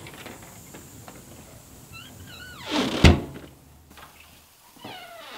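A front door swung shut: a short rush of air ending in one solid thud about three seconds in, with a few brief high squeaks just before it.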